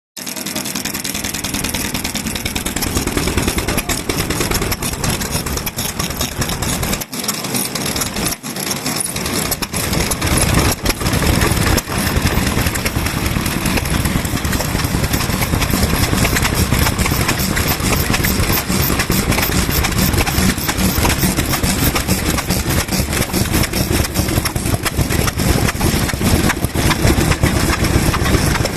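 Vintage stationary petroleum (kerosene) engine running steadily with a fast, even firing beat. There are two brief dips a few seconds in, and it runs slightly louder after about ten seconds.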